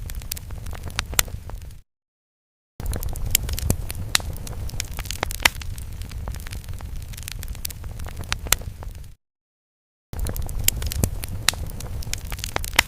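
Fire sound effect: a low rumbling burn with frequent sharp crackles and pops. It cuts to dead silence twice for about a second, near the start and again about two-thirds of the way through, where the loop restarts.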